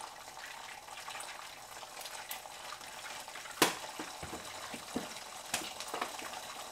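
Egg whites cooking in a frying pan on the stove, a steady sizzle. A sharp knock comes about three and a half seconds in, followed by a few lighter knocks.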